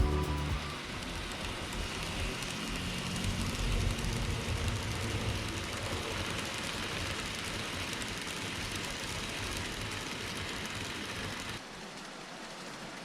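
N-gauge model freight train rolling along the track: a steady rushing hiss of small wheels on rails, dropping to a quieter level near the end.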